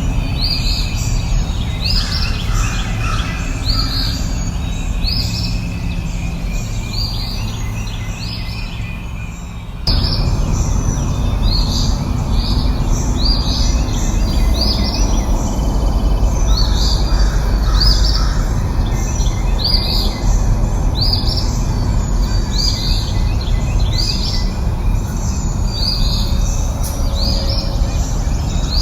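Small songbird repeating short, high, downward-sliding chirps, about one or two a second, over a steady low rushing background that abruptly gets louder about ten seconds in.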